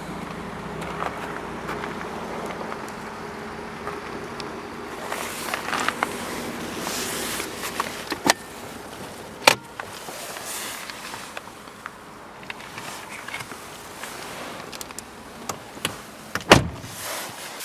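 Car interior fittings being handled: a steady hum in the first few seconds, then rustling and several sharp clicks.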